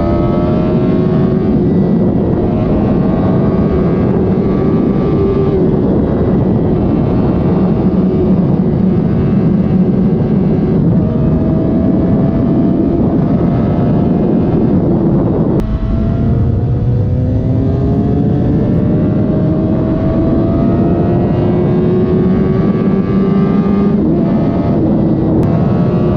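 Suzuki GSX-R1000 K7's inline-four engine on its stock exhaust, pulling under steady acceleration with its note rising slowly. About sixteen seconds in, an upshift drops the pitch and it climbs again.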